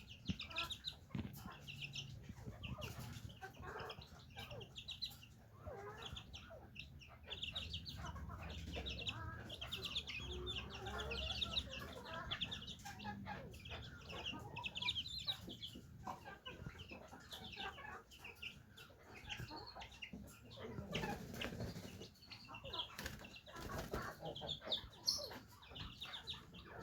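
Young Indian Parrot Beak chickens cheeping and clucking as they feed on live maggots, with rapid high chirps throughout and some wing flapping.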